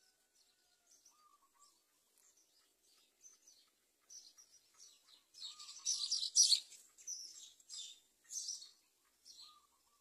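Birds chirping: a run of short, high, hissy chirps, loudest a little past halfway, with a few brief warbled notes lower in pitch.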